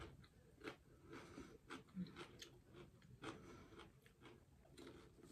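Faint, close-up chewing and mouth sounds of a person eating with her hands, with irregular soft smacks and short clicks.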